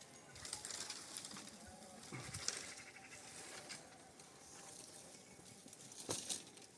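Livestock bleating faintly, with scattered rustling and one sharp knock about six seconds in.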